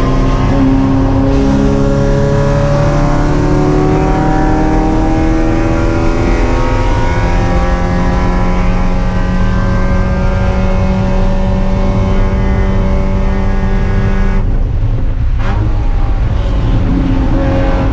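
Spec Miata race car's four-cylinder engine under power. Its pitch drops about a second in, then climbs slowly for about twelve seconds. A brief lift about three seconds before the end cuts the sound for about a second, and the engine pulls again after it.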